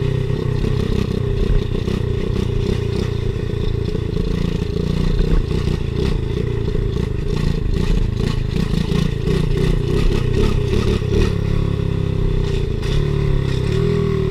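Pit bike's small single-cylinder engine running steadily while it is ridden, with rattling, knocks and scraping over rough ground.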